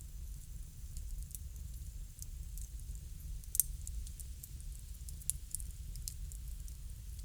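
Wood fire crackling: irregular sharp pops and snaps over a steady low rumble, with one louder pop about three and a half seconds in.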